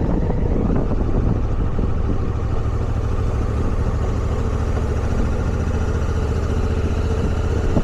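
Motorcycle engine running steadily at an even, low throttle.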